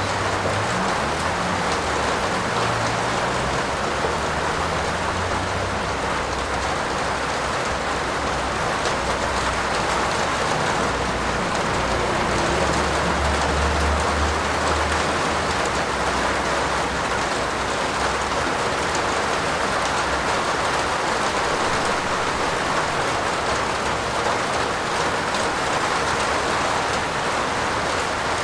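Steady heavy rain falling on a roof, a continuous even patter. A low rumble swells briefly about halfway through.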